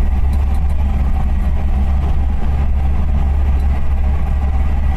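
Suzuki Samurai engine running steadily while the small 4x4 drives along, a loud, even low drone.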